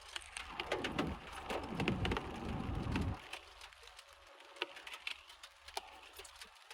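Heavy rain pattering on a car's roof and windscreen, heard from inside the car as many quick, irregular drop ticks over a soft hiss. A muffled low murmur sits under it for the first three seconds.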